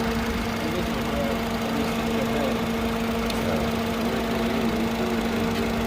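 Car engine idling steadily with the electric radiator cooling fan running, a constant hum over a rushing noise.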